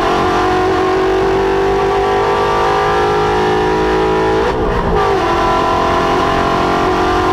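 Ford Mustang's Coyote 5.0 V8 running hard at high revs under load on track, a steady loud engine note with a brief break and dip in pitch about four and a half seconds in, like a gear change or lift.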